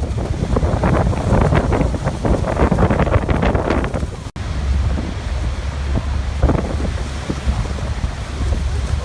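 Waterfall rushing, with wind buffeting the microphone in uneven gusts and a heavy low rumble. The sound cuts out for an instant about four seconds in.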